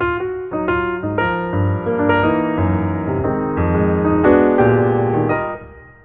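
Background piano music: struck notes and sustained chords at a moderate pace, fading down near the end.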